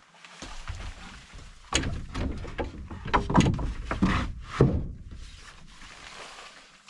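Wooden lumber being handled: a run of sharp knocks and thuds as a board is knocked and set down, loudest between about two and five seconds in, over low rumbling handling noise.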